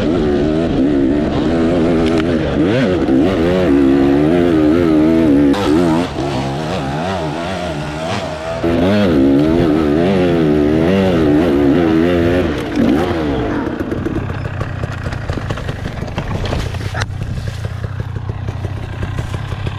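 Dirt bike engines revving up and down over and over, then settling to a steadier, lower running about two-thirds of the way through.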